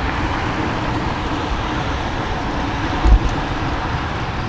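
Wind rushing over the microphone of a moving bicycle, with road and tyre noise underneath. There is one low thump about three seconds in.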